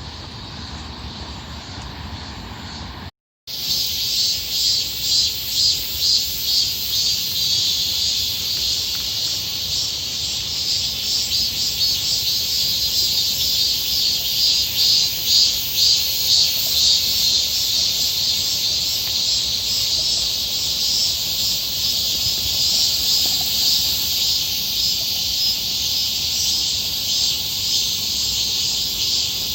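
Cicadas singing loudly in a high, hissing chorus that cuts in suddenly a few seconds in, swelling and fading in a quick regular pulse before settling into a steadier drone.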